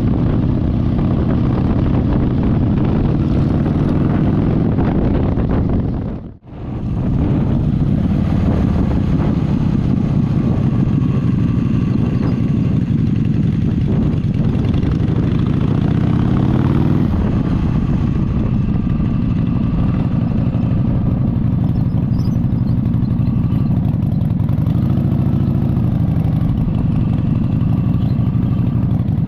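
Motorcycle engine running while riding, its pitch rising and falling in a few places as the throttle changes. The sound drops out sharply for a moment about six seconds in.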